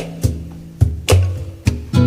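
Background music: acoustic guitar strummed in a steady rhythm, about two strokes a second, with no singing.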